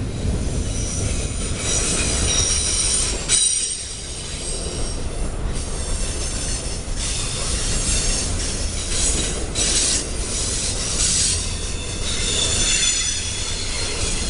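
Freight train of double-stack container well cars rolling past close by: a steady rumble of steel wheels on rail, with high-pitched wheel squeal that comes and goes. There is one sharp bang about three seconds in.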